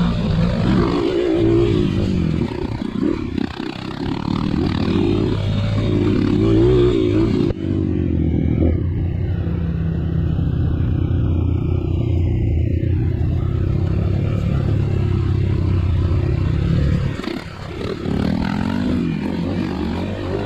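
Trail dirt bike engine running under load, with clatter and scraping over rough ground. About a third of the way in the sound changes suddenly and the hiss drops away, leaving a steady engine note. That note falls away briefly near the end and then picks up again.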